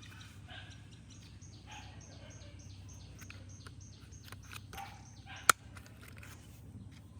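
Small bird chirping in a rapid series of short high notes, about four a second, that stops a little over halfway through. One sharp click is heard a little past five seconds in.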